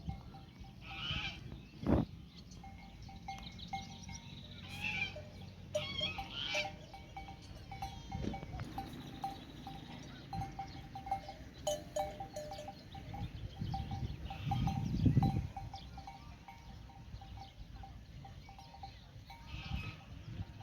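A grazing flock tinkling its animal bells steadily, with bleats now and then. There is a sharp knock about two seconds in and a deep low swell around fifteen seconds.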